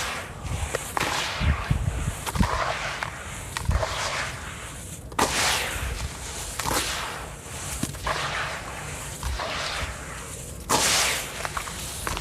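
Lumps of dry sand-cement crunching and crumbling apart in a series of crackly bursts, with two sharper, louder crunches about five seconds in and near the end.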